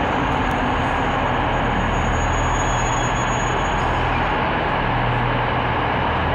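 Steady rumble of a train at a railway station platform, with a low engine hum under the general din of the station.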